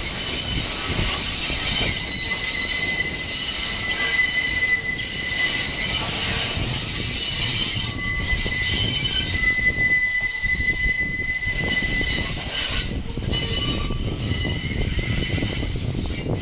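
R68-family New York City subway cars rolling slowly through the yard, their steel wheels squealing in a steady high-pitched whine over the rumble of the train. The squeal eases off about three-quarters of the way through and comes back weaker near the end.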